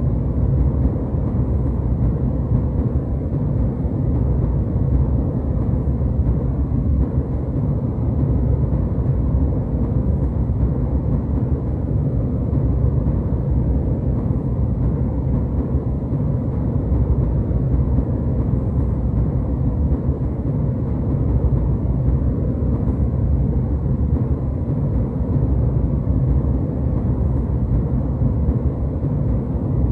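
Airliner cabin noise in cruise: a steady, deep rumble of jet engines and airflow heard from inside the cabin, even and unbroken.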